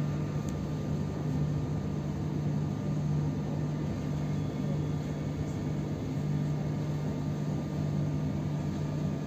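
Steady low hum and rumble heard inside a moving passenger train carriage.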